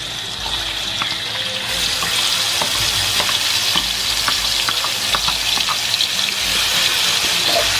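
Hot oil sizzling in a wok as shredded steamed banana blossom with shallots and garlic goes in and is stirred with a metal spatula. Small clicks and scrapes of the spatula on the pan run through the steady frying hiss.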